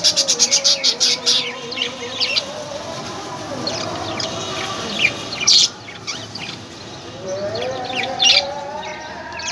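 Small pet parrots chirping: a quick run of high chirps in the first second or so, then scattered single chirps and calls, over a lower warbling sound near the start and again near the end.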